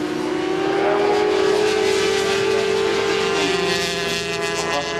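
400 cc supersport racing motorcycles running at high revs, several engine notes overlapping. One engine note climbs slowly in pitch, then drops away about three seconds in, as the bikes pass.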